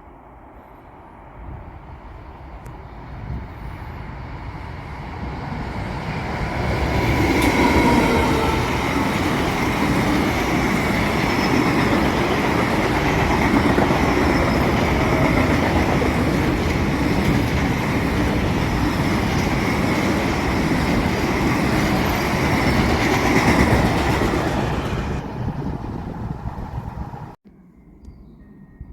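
Freight train hauled by an FS E652 electric locomotive approaching and passing, wheels running on the rails. It builds over several seconds to a loud, steady pass, fades, and cuts off suddenly near the end.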